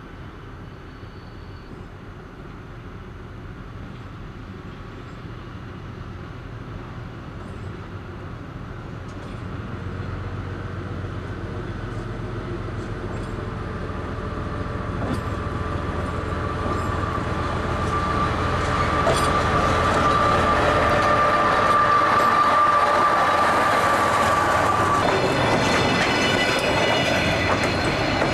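DR1A diesel multiple unit approaching and running past, growing steadily louder over about twenty seconds, with wheels clicking over rail joints. A steady high squeal sets in about halfway through and cuts off near the end, when a cluster of higher ringing tones takes over.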